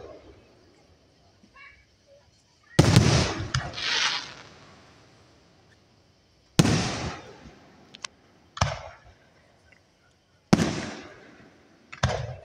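Aerial firework shells bursting one after another: about six booms a couple of seconds apart, each dying away over about a second.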